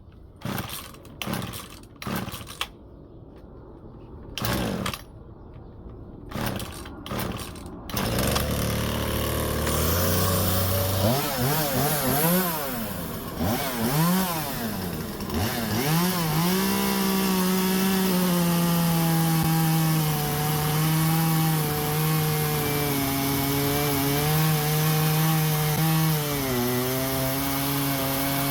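Husqvarna 120 Mark II two-stroke chainsaw being pull-started with several short pulls of the starter cord. It catches about eight seconds in, idles, and is blipped up and down a few times. It is then held at high revs while cutting through wood, its pitch sagging briefly under load near the end.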